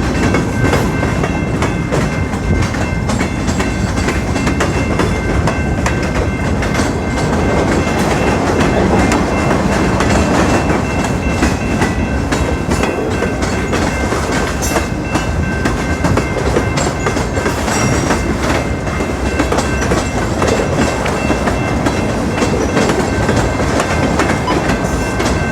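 Freight cars of a passing train rolling by at close range, steel wheels clattering over the rail joints in a steady, loud rush.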